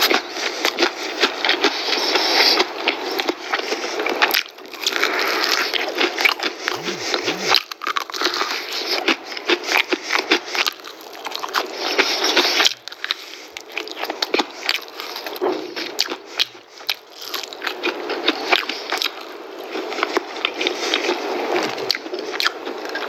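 Close-miked eating of crispy fried food: a dense run of crackling crunches and chewing, in several stretches with brief pauses between them.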